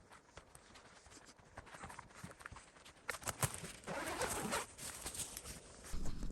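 Faint rustling and light clicks of something being handled, with a louder burst of rustling about four seconds in.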